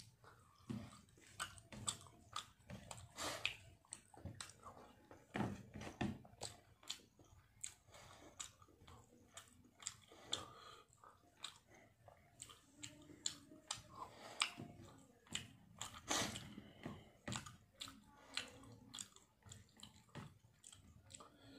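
A person chewing and smacking his lips while eating rice and fish by hand: irregular wet clicks and smacks, several a second.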